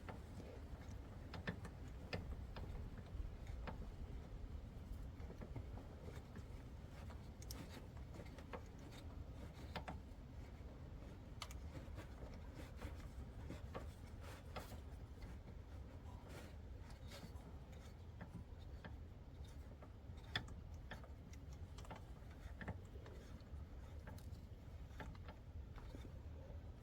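Scattered light clicks and metal taps of hand tools, a socket ratchet working on a starter mounting bolt, over a low, steady rumble of background noise.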